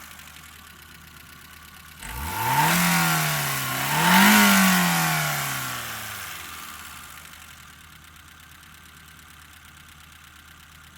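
Daewoo Matiz / Chevrolet Spark M150 1.0 S-TEC three-cylinder engine idling, revved twice in quick succession about two seconds in, then its revs falling slowly back to a steady idle.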